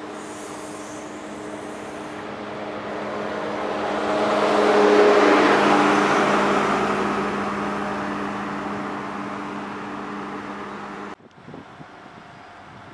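Diesel passenger train running past at close range: a steady engine drone under a rush of wheels on rail that swells to its loudest about five seconds in as the rear power car goes by, then fades. The sound cuts off suddenly near the end, leaving a quieter windy background.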